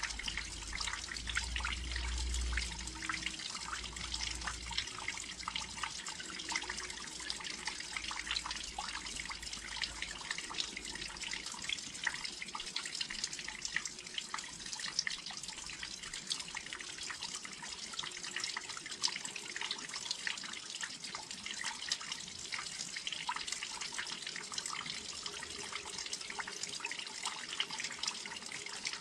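Steady rain falling by a windowsill, with many small drops ticking and dripping close by. A low rumble sits under the rain for the first few seconds.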